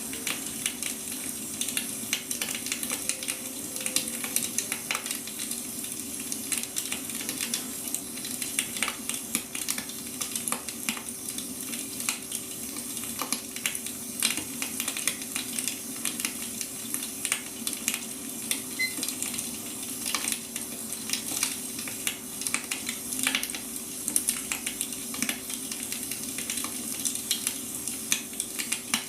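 Wood fire crackling: a dense, irregular run of small sharp pops and snaps, over a steady low hum.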